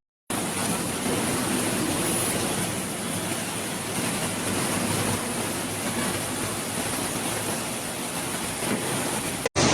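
Steady rushing of floodwater, an even noise with no distinct events.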